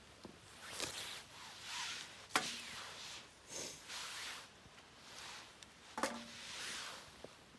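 Firewood being handled and set in place: rustling and scraping, with two sharp wooden knocks, one about two and a half seconds in and one about six seconds in.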